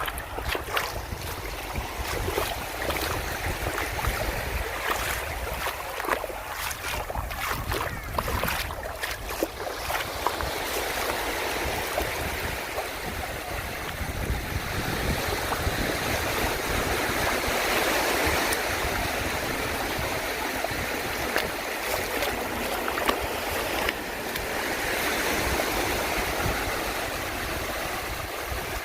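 Waves breaking and washing up a sandy beach, the surf swelling up twice in the second half, with low wind rumble on the microphone and scattered sharp clicks in the first half.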